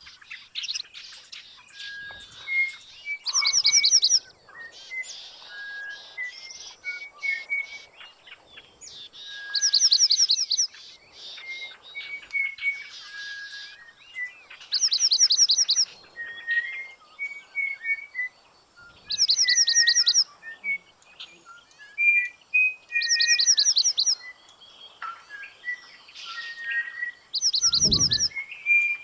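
Songbirds calling: a high, rapid trill comes back about every five seconds, with short clear whistled notes in between. A low thump near the end.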